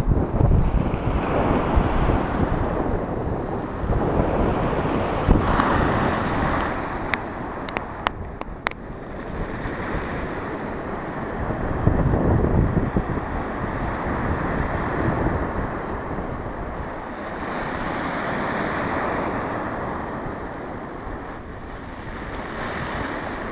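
Rough sea waves surging and breaking on the shore in repeated swells every few seconds, with wind buffeting the microphone. A few sharp clicks about a third of the way in.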